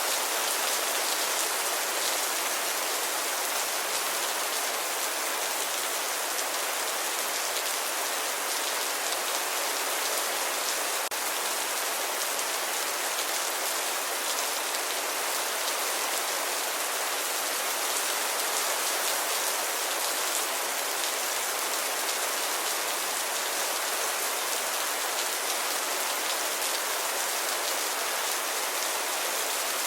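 Steady rainfall: an even hiss of rain with fine patter of drops, no change in intensity.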